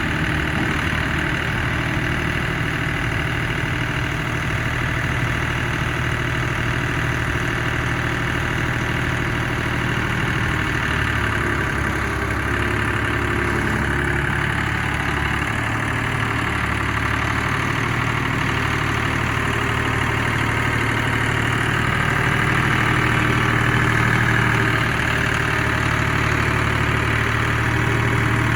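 International 385 tractor engine idling steadily, getting a little louder for a few seconds near the end.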